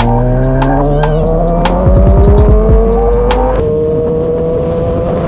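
A vehicle engine running and slowly rising in pitch as it accelerates, under music with a quick ticking beat. The music stops about three and a half seconds in, leaving the engine holding a steady pitch.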